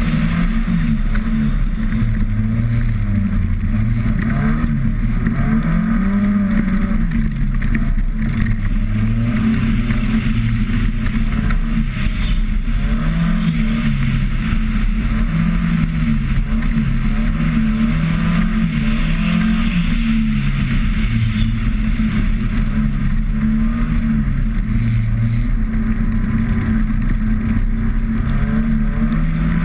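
Car engine heard from the car itself, revving up and dropping back over and over as the driver accelerates, shifts and lifts around an ice circuit, over a steady hiss.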